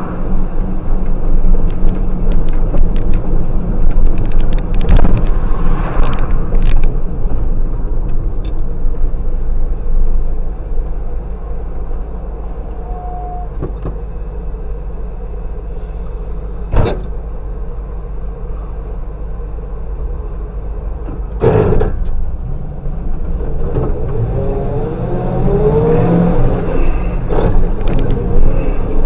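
Dashcam recording of a car on the road: a steady low rumble of engine and road noise, broken by a few sharp knocks, the clearest about 17 and 21 seconds in.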